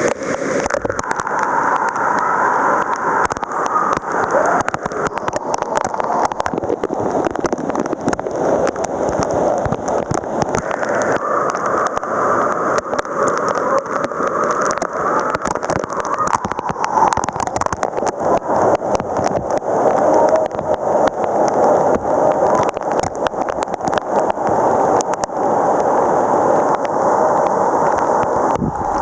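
Waterfall: water falling and splashing steadily, with frequent short crackles on top.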